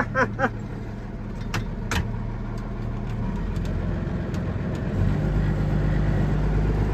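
Cold engine of a block-heated farm vehicle idling just after a winter cold start, left to warm up. About five seconds in the engine note deepens and grows louder, and there are two sharp clicks before that.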